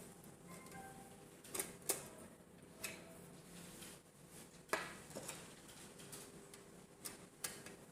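Scattered light metallic clicks and clinks, about seven in all, from small metal fan parts and tools being handled during assembly; a few carry a short faint ring.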